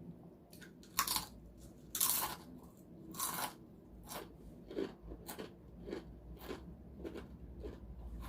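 Crispy spicy balado snack chips being bitten and chewed: three loud crunches in the first few seconds, then lighter chewing crunches about every half second.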